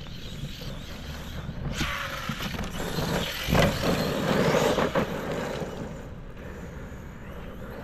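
ARRMA Kraton EXB V2 RC monster truck driving, its electric motor and tyres on dirt growing louder about two seconds in, loudest around the middle, then fading away.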